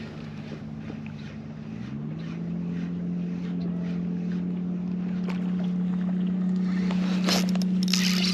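A boat motor running with a steady hum that steps up in pitch about two seconds in and grows steadily louder, with wind and water noise and a few bursts of rushing noise near the end.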